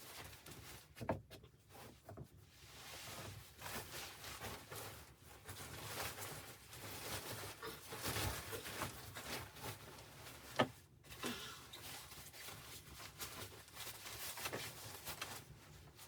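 Rustling and handling noises with scattered small clicks and a few sharp knocks, the loudest about ten and a half seconds in.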